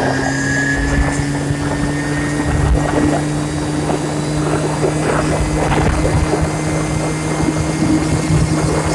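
Yamaha Jog Nexxon scooter's two-stroke engine, with a 70 cc cylinder kit and its stock exhaust, running flat out at full throttle. Its pitch creeps slowly upward as the scooter builds toward top speed.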